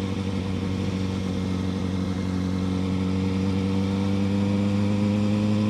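Kawasaki ZX-6R sport bike's inline-four engine running steadily while riding, its pitch and level rising slightly over the last few seconds.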